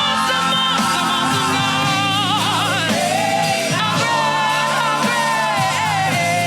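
Live gospel praise-and-worship music: a lead singer holding long notes with vibrato over a full band accompaniment.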